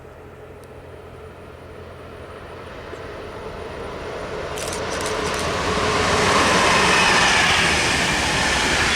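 A train approaching and passing close by, its rumble and rush growing steadily louder until about six seconds in and staying loud to the end. A few sharp clicks come about five seconds in.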